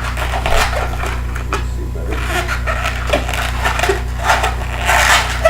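Inflated 260 latex balloon rubbing and squeaking in the hands as it is twisted and lock-twisted, in irregular scratchy bursts over a steady low electrical hum.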